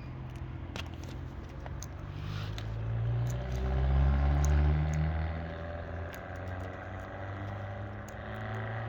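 A motor vehicle driving past on a road: its engine and tyre noise builds to a peak about four to five seconds in, then fades away. A few light clicks sound over it.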